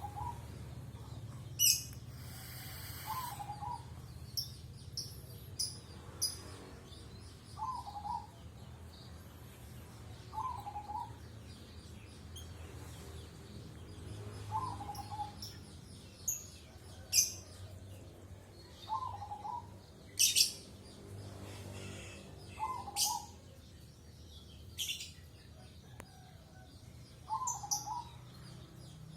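Birds calling: a short mid-pitched call repeated about every two to three seconds, with brief shrill high chirps in between.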